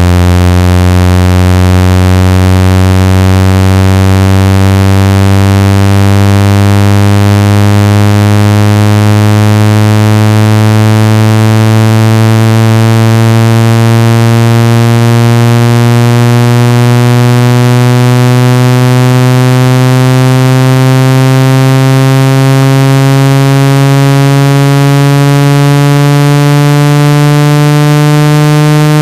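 Speaker water-ejection tone: a loud, buzzy, rich electronic tone that climbs slowly and steadily in pitch, played to vibrate water out of a phone or earphone speaker.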